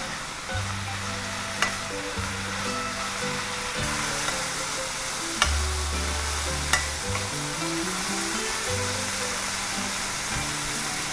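Water spinach (morning glory) stems sizzling in hot oil as they are stir-fried with a wooden spatula in a nonstick frying pan. The sizzle gets louder about four seconds in, and there are three sharp knocks of the spatula against the pan. Background music with a bass line plays underneath.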